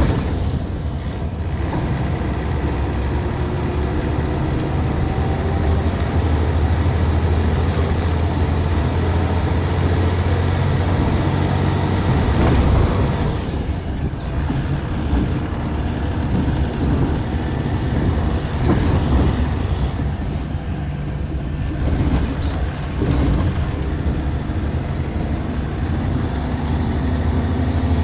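Hyundai Universe coach's D6CC Powertec 380 inline-six turbodiesel running under way: a steady low engine drone with scattered light ticks and rattles. The engine note eases twice, about halfway through and again about three-quarters of the way through.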